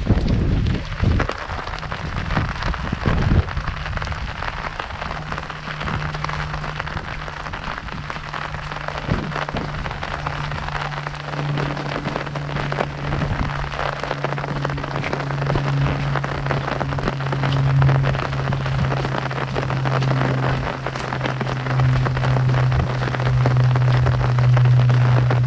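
Heavy rain pattering on an umbrella overhead, a dense stream of small drop hits, with a few low thumps in the first few seconds. From about five seconds in, a steady low hum of unknown source runs underneath and grows louder toward the end.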